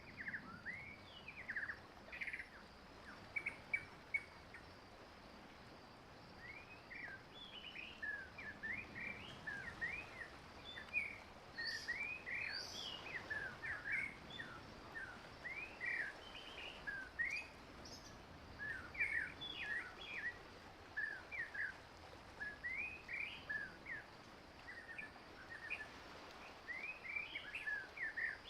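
Small birds chirping: a busy run of many short, quick chirps, some rising and some falling in pitch, over a faint steady hiss.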